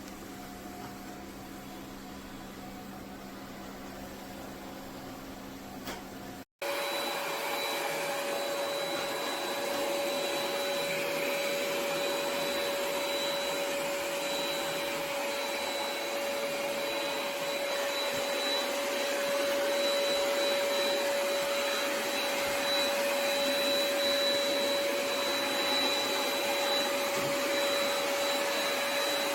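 ECOVACS DEEBOT X9 Pro Omni robot vacuum running. A quieter, steady low hum breaks off abruptly about six seconds in. A louder, steady whirring hiss with a thin high whine then carries on without change.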